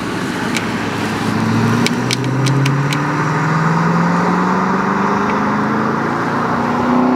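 Aston Martin engine accelerating hard, its pitch climbing steadily for several seconds up to high revs. A few sharp ticks sound over the first three seconds.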